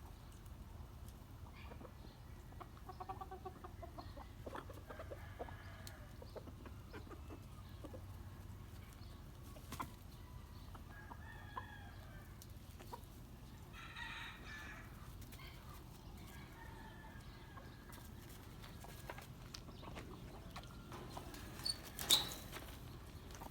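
Birds calling in short, scattered notes over a low steady rumble, with small clicks throughout and one sharp knock near the end.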